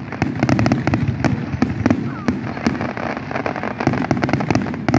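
Aerial fireworks going off in a dense volley: many sharp cracks and bangs, several a second, over a continuous low rumble of shell bursts.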